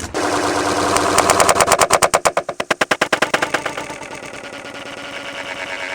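Engine Gear Beyblade spinning tops whirring and rattling against the plastic stadium. The fast, even rattle slows and spreads out about two seconds in, then settles into a steadier, quieter hum.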